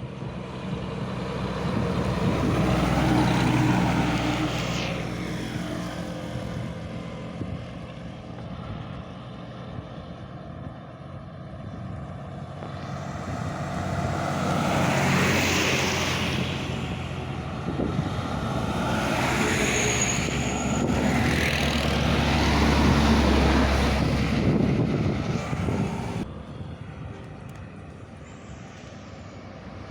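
Heavy diesel trucks passing by one after another. Engine and tyre noise swells and fades several times, loudest about 4 s, 15 s and 20–23 s in.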